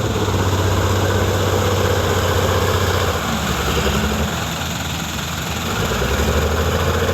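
Engine of a Toyota Dyna dump truck running steadily while the truck unloads fill soil. It eases off a little about three seconds in and picks back up near the end.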